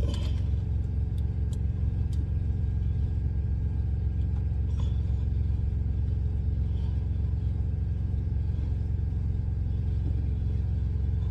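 Steady low rumble of an idling truck engine, with a few faint small clicks early on as the dough is handled.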